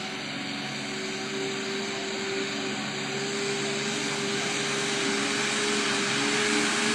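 Bedford truck engine running steadily with a constant whine over the engine noise, slowly growing louder.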